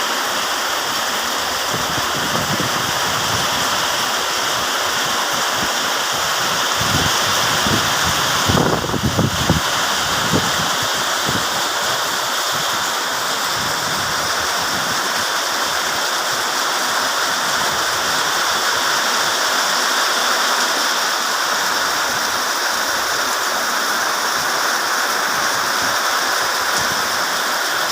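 Heavy rain pouring down in a steady, dense hiss, with strong wind gusting against the microphone for a few seconds about a third of the way in.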